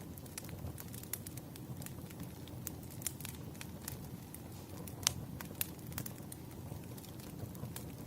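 Wood fire crackling: irregular sharp pops and snaps over a low steady rumble, with the loudest pop about five seconds in.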